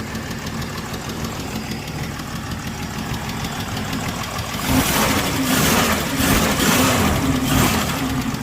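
1965 Plymouth Valiant's 225 slant-six engine idling shortly after a cold start. About five seconds in it gets noticeably louder for roughly three seconds, then settles back.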